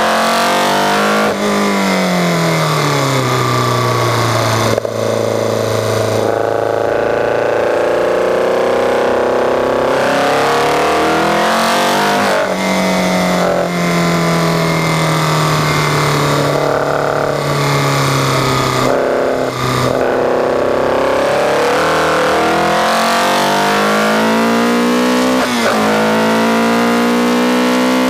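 Caterham R500's four-cylinder engine heard from the open cockpit at speed, its note rising under acceleration and dropping sharply at several gear changes, with wind rushing past the car.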